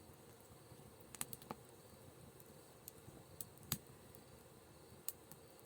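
A few sharp, scattered clicks and snaps over a near-silent background, the loudest a little before the four-second mark.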